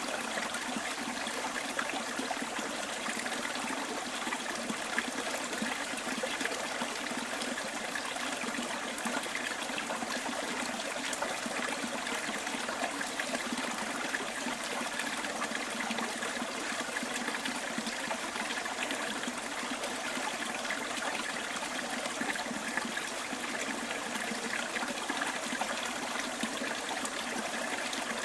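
Small bush stream flowing and trickling steadily, an even, unbroken rush of water.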